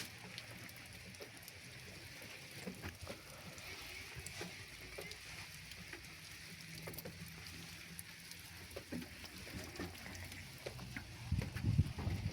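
Steady rain falling, with scattered drips and patters on nearby surfaces and a few louder low thumps near the end.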